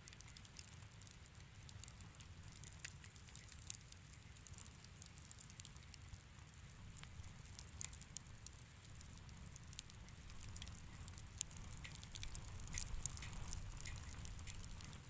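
Wood fire crackling in a fireplace: irregular sharp pops and snaps over a low, steady rumble, coming thicker and a little louder in the second half.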